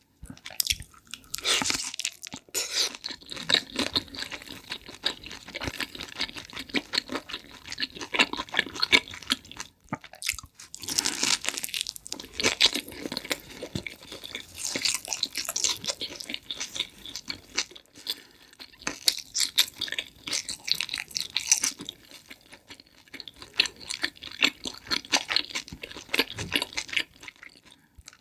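Close-miked chewing and crunching of shrimp and hot chicken pizza, its crust crackling in the mouth. The crunching comes in spells with brief pauses about ten seconds in and again near eighteen seconds.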